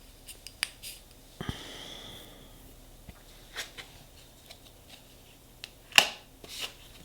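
Nail stamping tools handled on a metal stamping plate: small clicks and taps, a short scrape about a second and a half in, and a louder brief rustle near the end.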